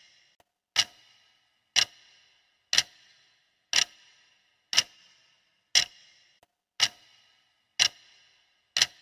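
Clock ticking steadily, one sharp tick every second with a short metallic ring after each, nine ticks in all.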